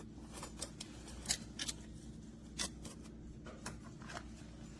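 Light, scattered clicks and clinks of a French press's metal plunger and mesh filter parts being handled.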